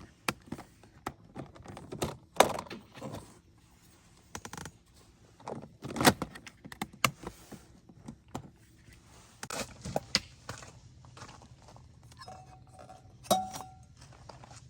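Irregular knocks, taps and clatter of hard objects being handled, with a brief metallic ringing clink near the end.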